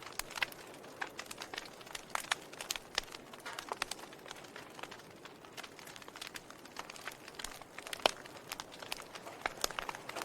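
Wood fire crackling in a fireplace: irregular snaps and pops over a soft hiss, with a sharper pop about eight seconds in.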